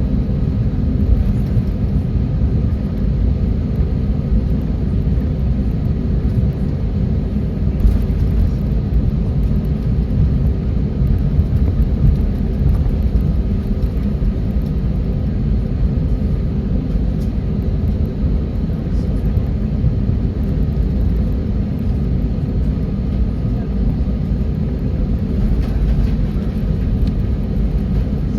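Boeing 737 jet engines running at low taxi power, heard from inside the passenger cabin as a steady low rumble with a faint even hum. A few light knocks come through now and then.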